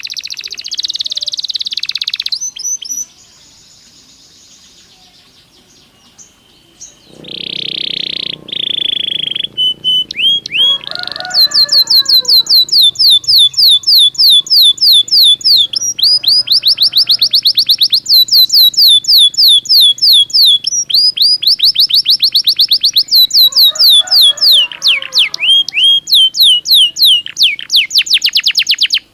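Belgian canary singing in fast trills of repeated falling high notes. A quiet gap and one long buzzy note come early on, then trilling runs almost without a break and cuts off suddenly near the end.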